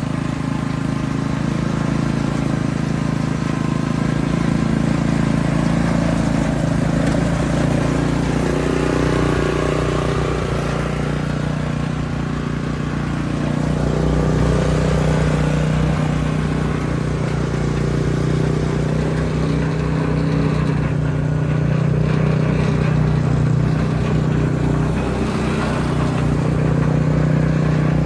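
A 6 hp Kubota GH170 single-cylinder petrol engine on a Canycom three-wheeled ride-on carrier, running steadily. It eases off slightly about twelve seconds in and picks up again a couple of seconds later.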